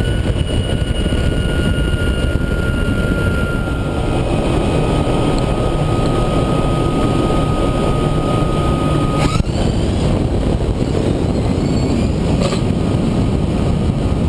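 Canadair CT-33 (T-33) jet's Rolls-Royce Nene turbojet running: a steady roar with a high whine that slowly drops in pitch, broken by a sudden change about nine seconds in and a sharp click a few seconds later.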